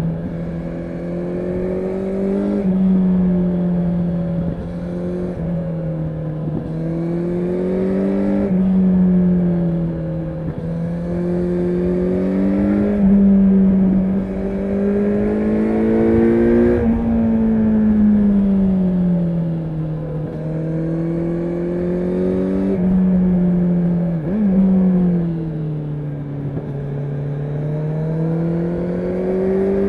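Kawasaki Z900's 948 cc inline-four, fitted with an aftermarket exhaust, pulling under way, its note climbing and sagging with throttle and jumping at each gear change, several times over the half minute.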